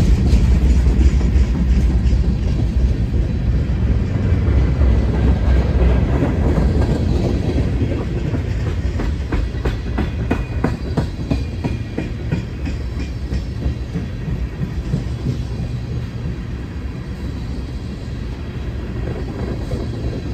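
Freight train cars rolling past, wheels clicking over rail joints above a steady low rumble that slowly fades.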